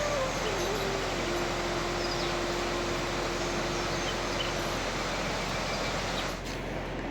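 Steady rushing noise, with a single held note in the background for a few seconds.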